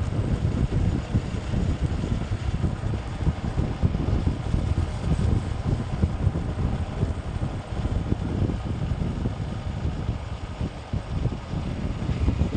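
Wind buffeting the microphone of a moving bike: a steady, gusty low rumble with road and vehicle noise underneath.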